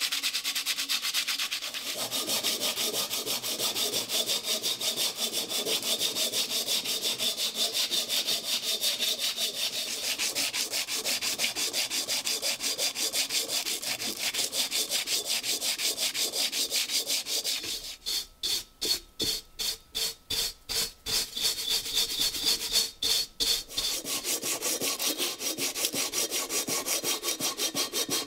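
Rapid back-and-forth abrasive rubbing on the steel shell of a rusty WW2 German M40 helmet during rust removal, several strokes a second. About two-thirds of the way through, the strokes briefly come further apart before the fast rubbing resumes.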